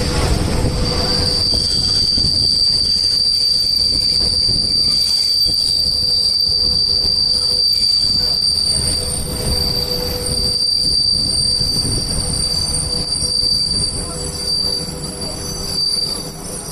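Railway wheels squealing: a steady high-pitched squeal that sets in about a second in and holds, over the loud low rumble of a moving passenger train.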